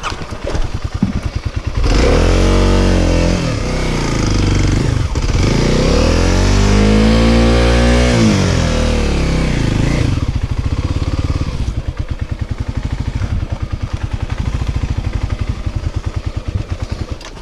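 Dirt bike engine revving up and back down twice, then running at a lower, steady, pulsing speed.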